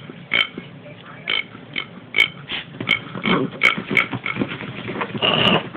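Miniature pinscher making a rapid, irregular series of short, sharp noises, about a dozen, with one longer noise near the end.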